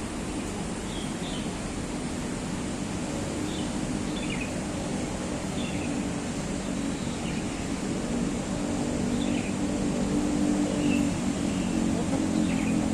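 Steady rumble of city traffic with a bird's short high chirps every second or so; the traffic hum grows louder in the last few seconds.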